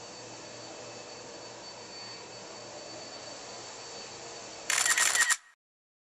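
A faint steady hiss and hum, then near the end a loud burst of rapid clicks lasting about half a second, after which the sound cuts off suddenly.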